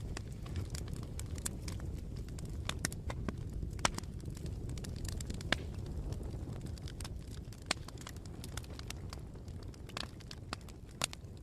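Bonfire crackling: irregular sharp pops and snaps over a low, steady rumble of the burning fire.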